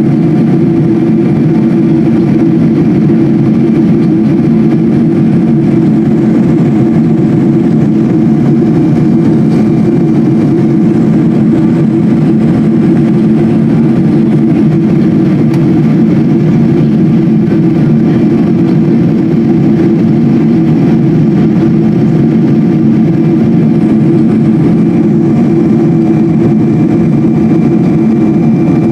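Steady drone of a Boeing 777-200 airliner's jet engines and airflow heard inside the cabin, loud and unchanging, with a few steady hum tones over the roar.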